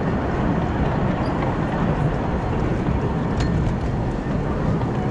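Steady rolling noise of a miniature steam railway train heard from on board, with a few faint clicks.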